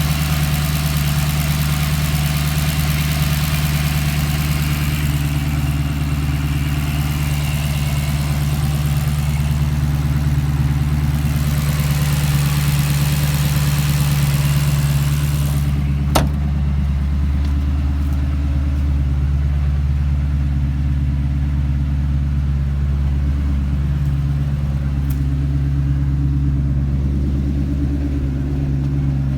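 Maserati V8 engine idling steadily. About halfway through there is one sharp click, and after it the sound is duller, with less hiss.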